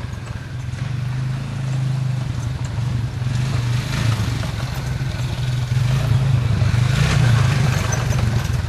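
Small engine running at a steady speed, with a rough rushing noise building over it from about three seconds in.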